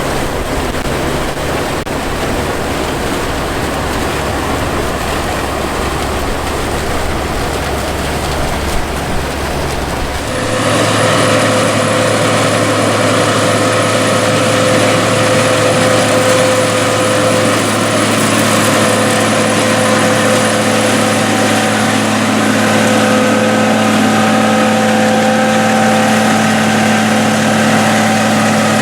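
Engines of vintage combine harvesters running steadily. About ten seconds in the sound changes abruptly from a deep rumble to another machine with a steady humming note.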